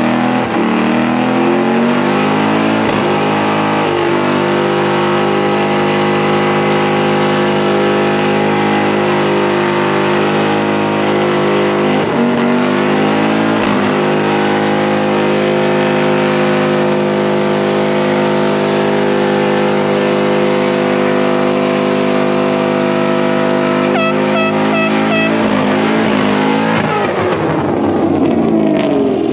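Car engines running loudly at a fairly steady speed, their pitch shifting now and then. Near the end a car passes close by, its engine note falling and then rising.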